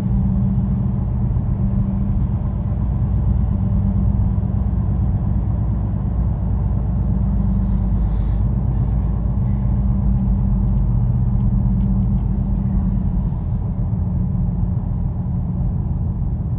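Steady low rumble of a car being driven, heard from inside the cabin: engine and road noise with a few faint clicks.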